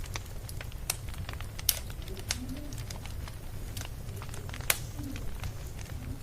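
Wood fire crackling: irregular sharp pops and snaps over a steady low rumble, with the loudest pops about a second and a half in and near the end.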